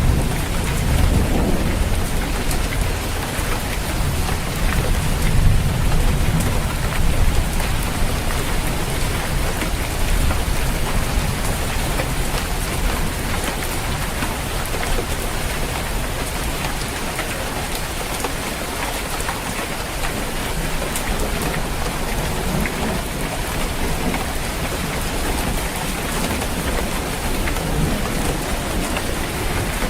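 Steady rain falling on a roof, a dense even patter. A low rumble of thunder fills the first several seconds and dies away, and another low rumble builds near the end.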